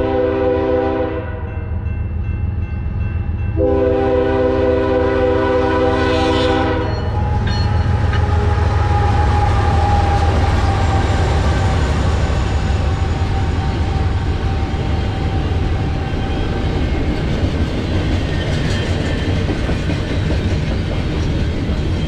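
BNSF double-stack intermodal freight train at a grade crossing: the locomotive's horn sounds a short blast, then a longer one of about three seconds, then the train rolls past close by with a loud, steady rumble of wheels on rail.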